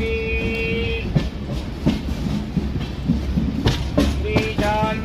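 Passenger train running, its wheels clicking over rail joints with several sharp knocks over a steady rumble. A steady held tone sounds for about the first second.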